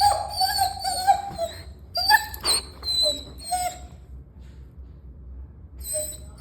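German shepherd puppy whining in a series of short, high-pitched cries, several in quick succession and two more near the end.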